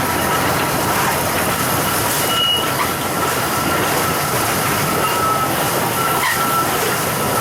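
Cane train of empty cane bins running past on a curve: a steady loud rush of wheels on rail, with a thin wheel squeal coming and going.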